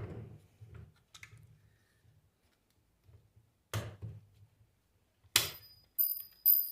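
Metal parts and hand tools handled while taking apart an alternator: a few separate sharp knocks, then near the end three metal clinks with a high ringing tail.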